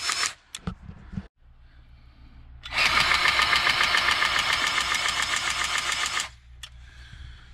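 Milwaukee cordless grease gun running in bursts, a rapidly pulsing motor-driven pump pushing grease into the skid steer's pivot joints. It stops just after the start, then runs again for about three and a half seconds in the middle, with a few small clicks in the pause.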